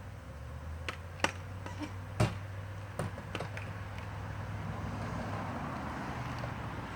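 Steady low hum of a large honey bee swarm buzzing, growing a little louder toward the end, with a few sharp clicks or knocks in the first three seconds.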